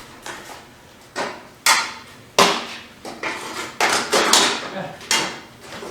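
About half a dozen sharp knocks and clanks at irregular spacing, each with a short ring, from tools and parts striking the front bumper of a pickup truck as its lower section is worked loose.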